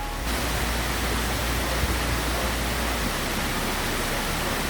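Waterfall, with water rushing in a steady, even hiss that comes in suddenly just after the start.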